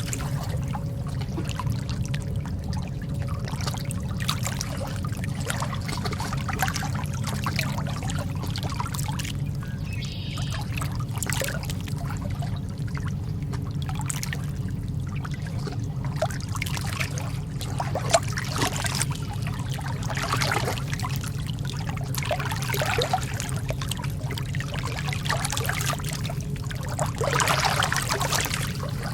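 Lake water lapping and trickling, with small irregular splashes over a steady low rumble.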